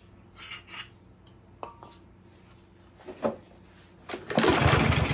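A couple of short hisses of starting fluid sprayed into a Briggs & Stratton mower engine's carburetor and a few light clicks, then about four seconds in the engine is pulled over and fires, running loudly on the starting fluid. That it runs on starting fluid shows spark and compression are fine and the no-start lies in the fuel supply and carburetor.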